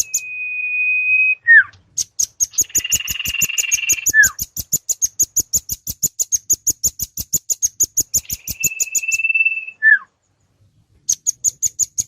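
Bird-lure recording of a nuthatch and a common iora calling: a fast run of sharp, high chips at about seven a second, long steady whistles that each end in a quick falling note, and a short buzzy chatter near the start.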